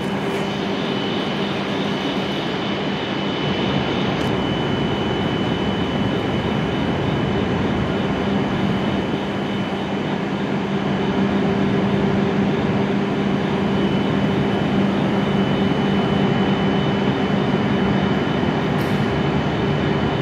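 Standing W7 series shinkansen humming steadily at the platform, a constant low hum with a thin high whine over a background hiss.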